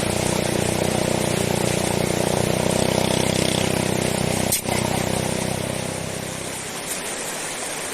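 An engine running steadily, then dying away about six and a half seconds in, leaving a steady rush of water.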